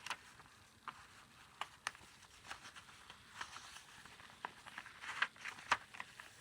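Faint rustling and a scatter of light ticks from paper and card pages of a handmade junk journal being handled and a page turned over.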